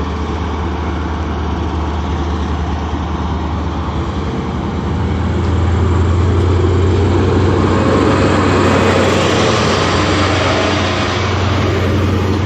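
Diesel train engine running with a steady deep drone. It grows louder about five seconds in and stays loud.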